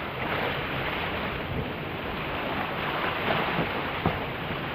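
Water rushing down a stone waterfall: a steady wash of noise, with a few faint knocks in the second half.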